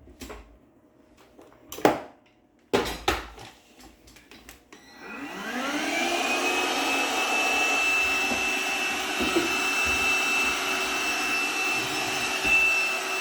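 A few sharp knocks, then an Oster vacuum cleaner is switched on about five seconds in: the motor spins up with a rising whine and then runs steadily with a high-pitched whine.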